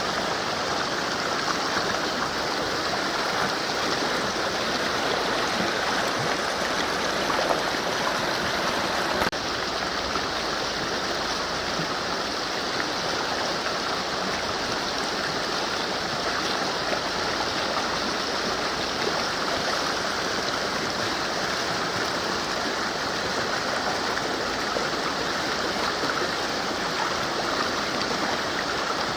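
Mountain river flowing over rocks: a steady, even rush of water, with a slight shift in tone about nine seconds in.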